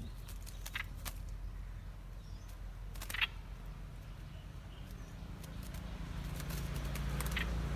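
A few short, sharp bird chirps over a low rumble that grows louder near the end.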